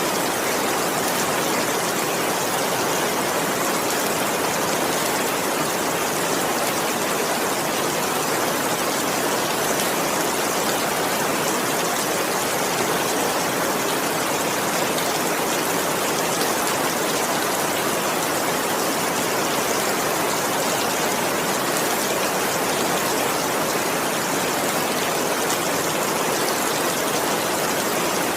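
Steady rain falling, an even, unbroken rush of water noise at a constant level.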